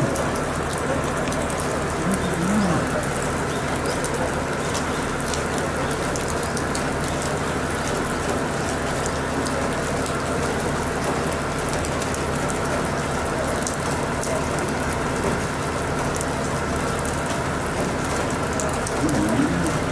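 Steady hum of an idling diesel railcar, with fine patter like rain throughout and a dove cooing twice, about two and a half seconds in and near the end.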